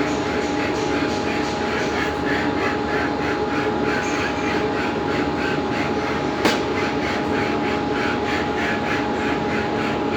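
Engine cylinder head being lapped, rubbing back and forth in a steady rhythm of a few strokes a second over a constant machinery hum. A single sharp knock about six and a half seconds in.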